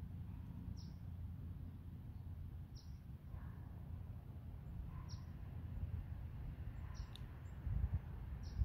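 A small bird's short, high chirp repeated about every one to two seconds, over a steady low rumble of wind on the microphone.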